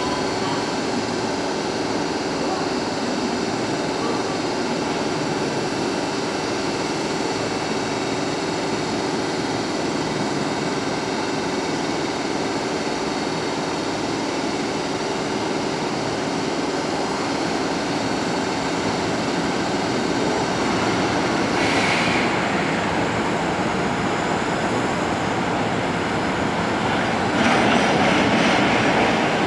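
EF210 electric freight locomotive and its train, a steady mechanical running noise with faint steady tones through it. Twice near the end it briefly grows louder and harsher.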